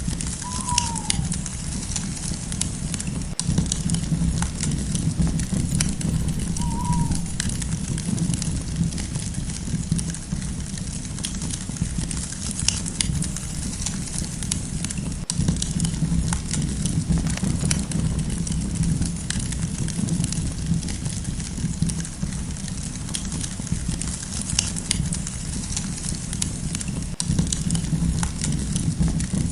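Wood campfire crackling steadily, with many small scattered pops over a low rumble of burning. Twice, a short falling animal call sounds faintly: about a second in and again near seven seconds.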